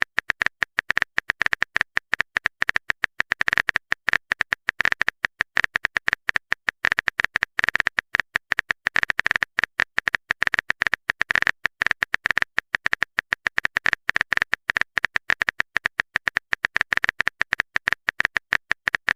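Typing sound effect: a rapid, steady stream of short sharp keyboard clicks, many per second.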